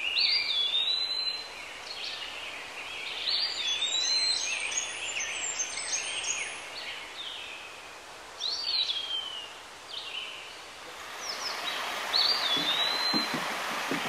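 Songbirds singing: clear whistled phrases that swoop up and down, repeated every few seconds over a steady background hiss.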